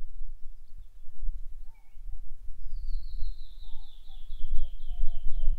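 Wild birds singing. From about halfway in, one bird gives a quick series of repeated high notes, about four a second, the series drifting lower in pitch, while lower whistled notes come and go. Under it runs a low, uneven rumble of wind on the microphone.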